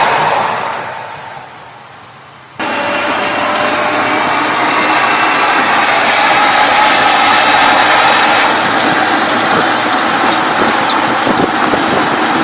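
A vehicle running steadily, a noisy hum with a faint high whine through it. Before that, an earlier sound fades away and then cuts off abruptly about two and a half seconds in.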